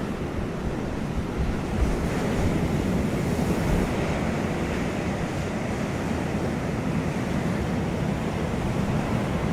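Wind blowing steadily across the microphone, a low rumbling rush with a slightly stronger gust about two to four seconds in.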